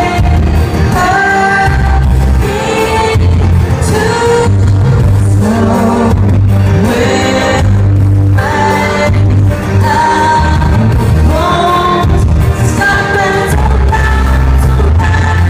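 A female lead singer with a live pop-rock band, loud, with heavy pulsing bass. It is recorded right beside a PA loudspeaker, which spoils the sound.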